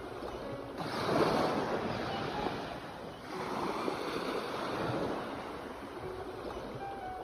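Sea waves breaking and washing up, a rushing surge that swells about a second in and again around three seconds, then draws back.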